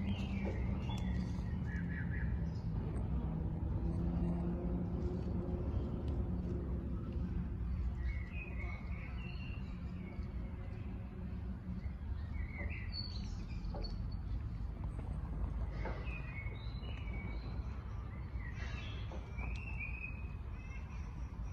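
Birds chirping in short calls every few seconds over a steady low outdoor rumble, with a low hum through the first several seconds.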